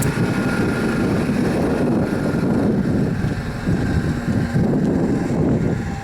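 Regional electric train running: a steady, loud rumble without pauses.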